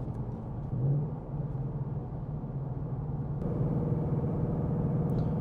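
2026 Mustang GT's 5.0 L V8 running steadily at a light cruise, heard from inside the cabin; it grows a little louder and fuller about three and a half seconds in as the engine takes more load.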